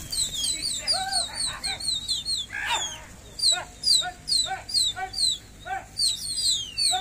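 Birds chirping in a rapid series of short, high calls that sweep downward, several a second, with lower short calls mixed in.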